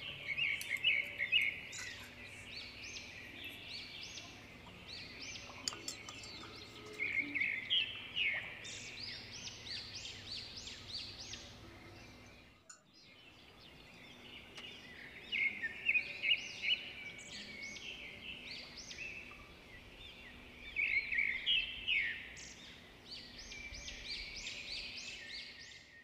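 Small birds chirping in repeated bursts of quick high notes, over a faint low hum; the sound drops out for a moment about halfway through.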